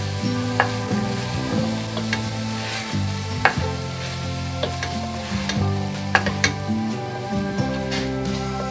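Sausage meat and onion sizzling as they fry in a stainless steel pot, stirred with a wooden spoon that knocks sharply against the pot a few times. Soft background music underneath.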